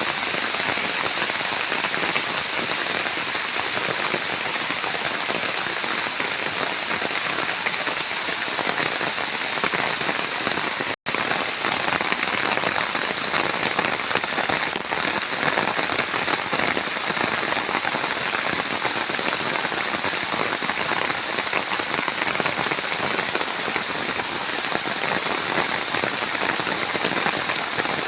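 Steady, heavy rain falling, an even hiss of drops with no let-up, broken by a momentary silence about eleven seconds in.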